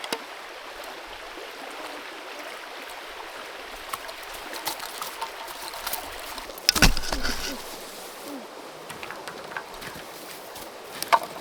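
Shallow creek water running steadily, with scattered small clicks and one loud thump about seven seconds in.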